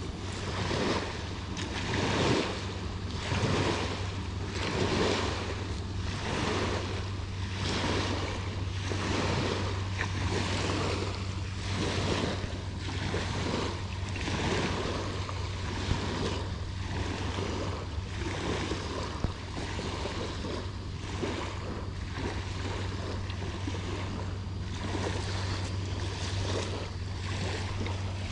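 Light surf: small waves washing onto the beach, a rush about every second and a half, over a steady low hum.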